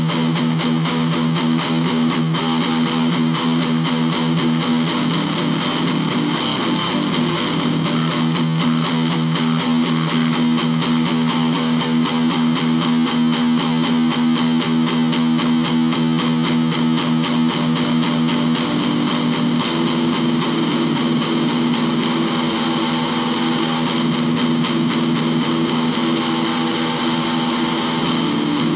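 Electric guitar played continuously, with a steady run of rapid strokes over sustained low notes, some distortion on the tone.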